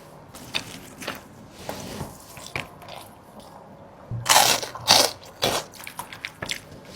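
Close-up eating: scattered light clicks for the first few seconds, then loud crunching about four seconds in, two main bites close together and a smaller one after, then quieter chewing.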